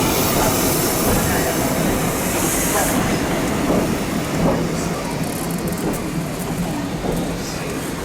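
Train rolling along the track, its rumble fading slowly as it moves away, with a high hiss during the first three seconds.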